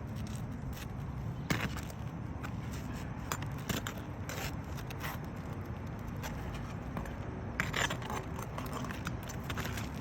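Scattered scrapes and clicks of hand work on asphalt roof shingles, heaviest about a second and a half in, around the middle, and near the end, over a steady low rumble.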